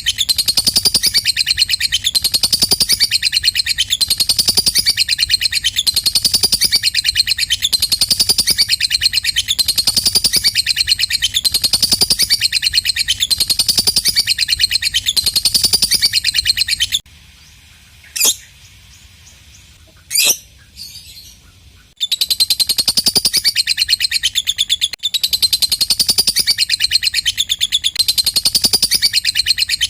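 Lovebird in long, fast 'ngekek' chatter: rapid high notes repeated in phrases about once a second. The chatter breaks off for about five seconds past the middle, where two short sharp sounds are heard, then resumes.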